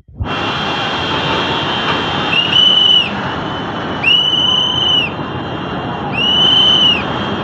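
Loud steady rush of a flooding river, with three long whistle blasts over it, each about a second.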